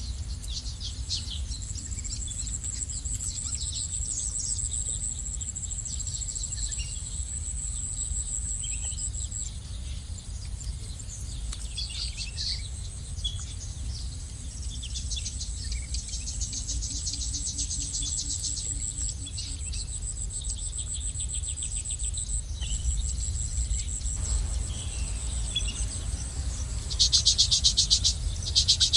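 Insects trill steadily at a high pitch while small birds give scattered soft chirps over a low, steady rumble. Near the end a louder, rapid pulsing trill comes in.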